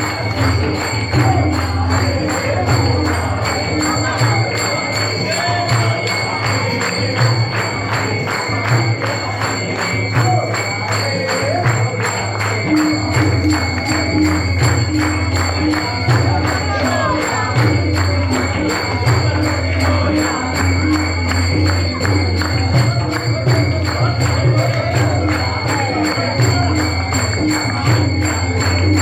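Devotional music: group singing over a fast, steady jingling beat of tambourine or small cymbals, with a ringing metallic tone held throughout.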